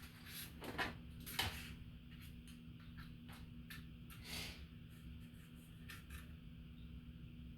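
Scattered light clicks and taps of small parts and tools being handled, about eight in all, over a faint steady hum.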